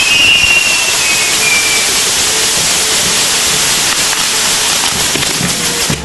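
Fireworks on a castillo tower burning, a loud steady rushing hiss of spark-spraying fountains and wheels. A few high whistles slide down in pitch during the first two seconds.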